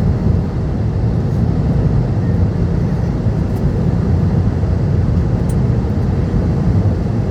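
Steady low roar of an Airbus A320neo cabin during climb, from its Pratt & Whitney PW1100G geared turbofan engines and the airflow over the fuselage.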